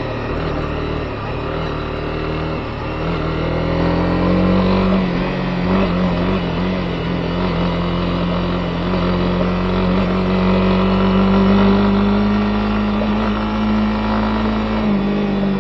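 Honda CB250R's single-cylinder four-stroke engine running under way at a steady pace, with a slight rise in pitch a few seconds in and a small drop near the end, over a constant rush of wind and dirt-road noise.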